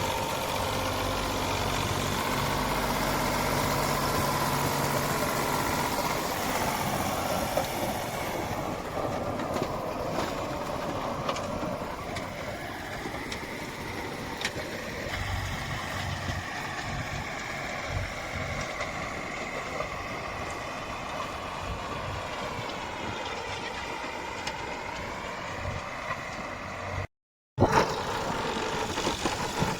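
Tractor diesel engine running steadily, with a brief break in the sound near the end.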